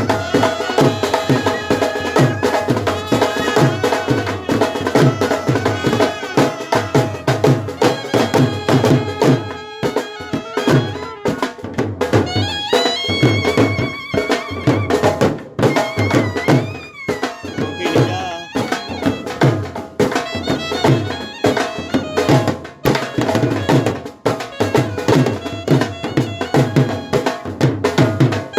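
Brass band playing traditional folk music: a wind melody with sliding, ornamented notes over a steady drum beat.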